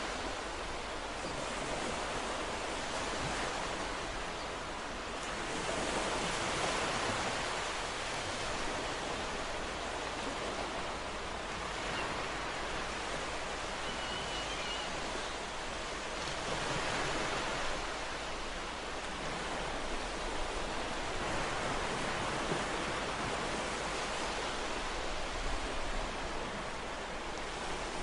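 Ocean waves breaking and washing on a shore, a continuous rush of surf that swells and recedes every few seconds.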